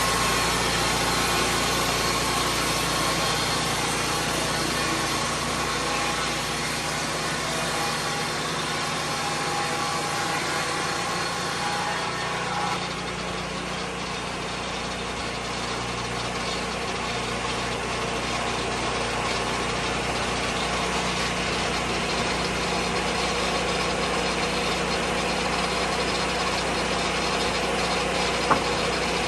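Lucas Mill 10-30 portable sawmill's engine running steadily, with a brief sharp click near the end.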